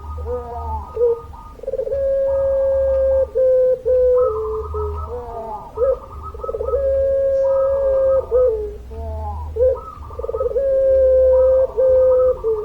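Puter pelung dove cooing over and over in long drawn-out coos, each held steady for a second or two with short breaks between, over a low steady hum.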